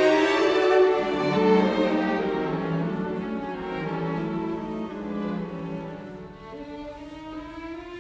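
Music of bowed strings, violin and cello, playing slow, held notes, growing softer through the stretch.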